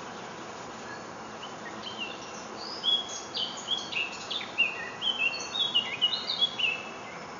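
A small songbird singing a fast string of short, high chirping notes, starting about two seconds in and stopping about a second before the end, over a steady faint hiss.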